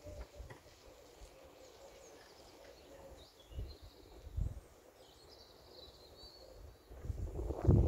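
Quiet garden ambience: a bird sings faintly and distantly for a few seconds in the middle, and low wind buffeting on the microphone grows loud near the end.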